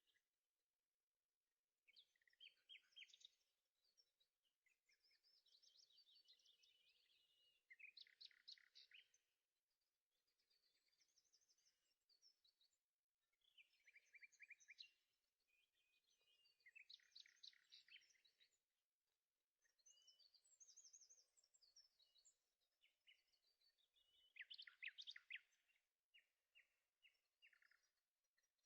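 Faint birdsong: a songbird sings a string of varied, trilled, chirping phrases, one every second or two.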